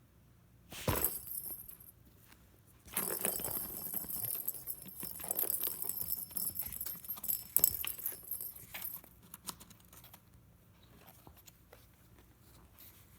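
A cat's toy jingling and rattling as a cat bats at it. A short burst comes about a second in, then a longer stretch of jingling and clattering that tails off into a few light taps.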